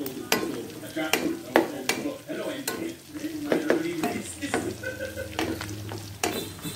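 Cubes of pork sizzling in hot oil in an aluminium wok as they brown, stirred with a metal utensil that scrapes and knocks against the pan in short, irregular strokes.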